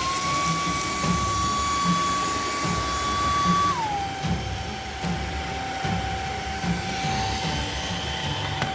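Proscenic i9 cordless handheld vacuum's motor running with a steady whine. Its pitch glides up right at the start, holds, then slides back down to a lower speed a little under four seconds in.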